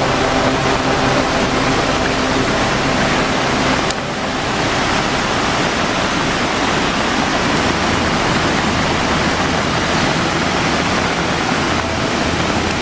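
Floodwater rushing in a heavy, steady flow during a typhoon, a loud, even wash of water noise with a brief dip about four seconds in.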